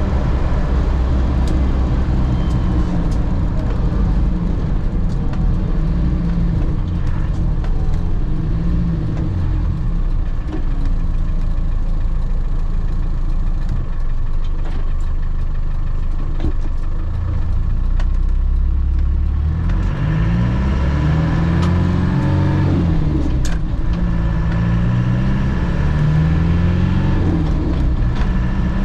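1998 Land Rover Defender heard from inside the cab while driving: steady engine and road noise, with the engine note rising and falling several times in the last third as it revs through the gears.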